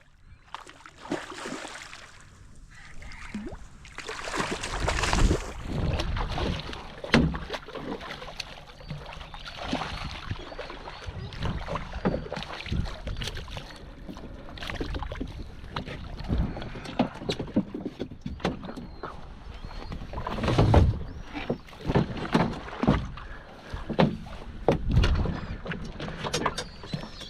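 Water slapping and sloshing against the hull of a small drifting fishing boat, with irregular knocks and thumps.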